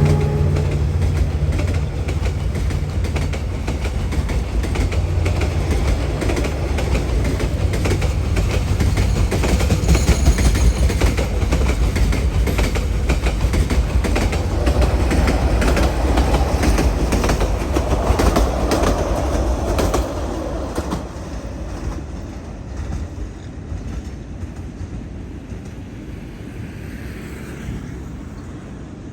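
A passenger train passing close by: a diesel locomotive's engine hum at the start, then the carriages' wheels clacking over the rail joints. The sound fades away after about twenty seconds.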